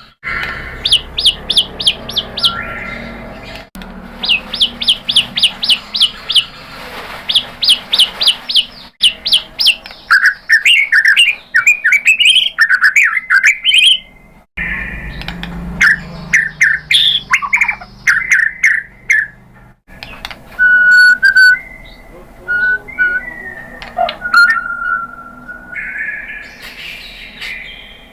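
White-rumped shama singing: quick runs of high, rapidly repeated chirps alternating with varied slurred whistled phrases, and a long held whistle in the second half.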